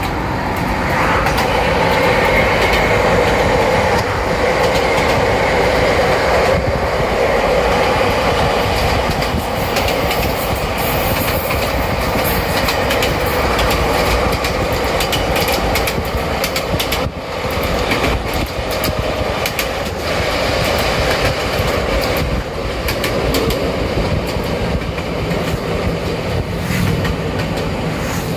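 Kobe Electric Railway 5000 series electric train running: a continuous rumble, with wheels clicking over rail joints.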